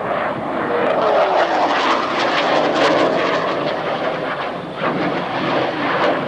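Twin-engine F/A-18 Hornet jet passing by at low altitude: a loud jet rush that swells about two seconds in, with its pitch gliding down as it goes past.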